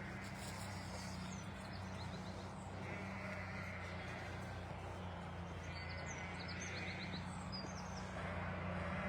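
Outdoor ambience: a steady low hum under an even rushing hiss, with brief high bird chirps about two seconds in and again around six to seven seconds.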